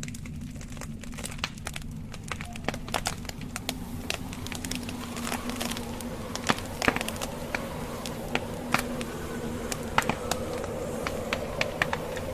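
Wood fire in a fireplace crackling, with irregular snaps and pops of burning logs that grow busier about halfway through, a few louder pops among them. A steady low drone runs underneath.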